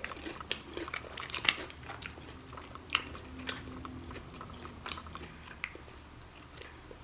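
Close-up chewing and biting, irregular wet mouth clicks and smacks, of a person eating chicken katsu with gravy, rice and macaroni salad. The sharpest clicks come about a second and a half and three seconds in.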